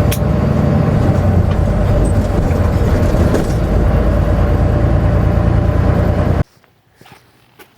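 Semi-truck diesel engine and road noise heard from inside the cab, a steady low rumble that cuts off suddenly about six and a half seconds in. A few faint ticks follow.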